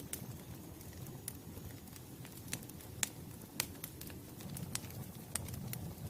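Wood fire crackling: irregular sharp pops, the loudest about three seconds in, over a low steady rumble of burning.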